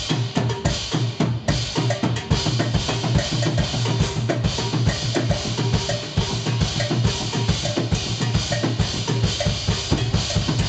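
Live jazz-fusion band playing, with a busy drum kit to the fore: rapid, dense drum hits over sustained bass notes and other pitched instruments.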